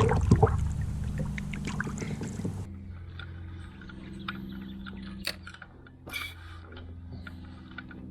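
Small water drips and trickles with scattered light clicks and knocks at a kayak, over a steady low hum; the sound changes abruptly a little under three seconds in.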